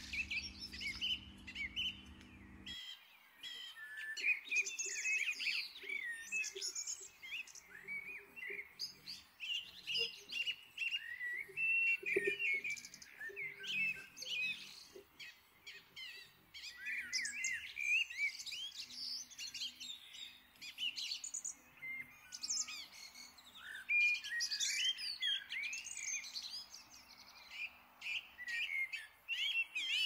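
Many songbirds chirping and singing, with quick overlapping chirps and trills throughout.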